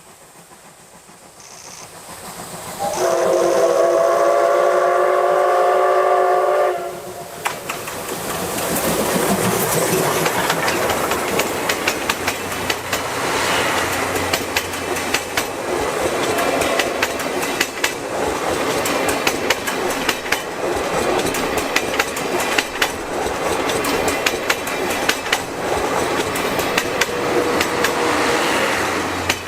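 Steam locomotive C57 180 sounds its steam whistle in one long blast of about four seconds. It then comes through with its exhaust chuffing and its wheels clattering over the rail joints.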